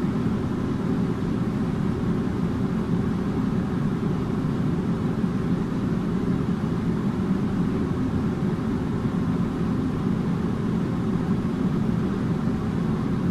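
Air conditioner running steadily: an even, low whooshing hum of the fan and compressor with no change in pitch or level.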